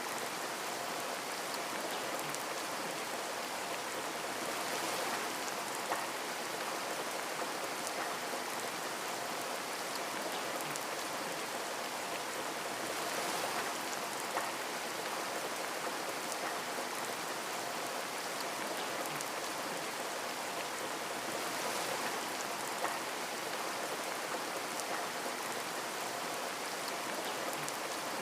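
Steady rain falling on a window, with a dense haze of rain and many small drop ticks against the glass. Three drops tick a little louder, spread through the stretch, and the rain swells gently every several seconds.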